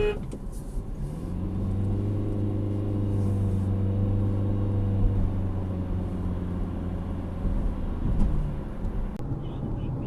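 Vehicle engine droning steadily over road noise, its pitch rising a little about a second in and then holding level; the sound changes abruptly near the end.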